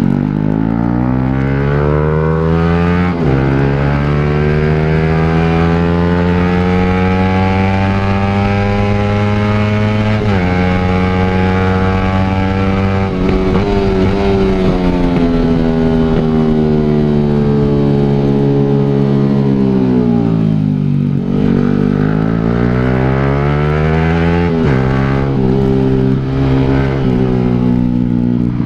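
Motorcycle fitted with an aftermarket exhaust, accelerating up through the gears. Each time the engine pitch climbs, it drops sharply at the next upshift. About two-thirds of the way through it slows and the pitch falls, then it pulls up through the gears again.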